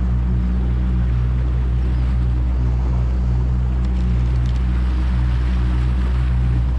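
Boat engine running at a steady speed with an even low drone.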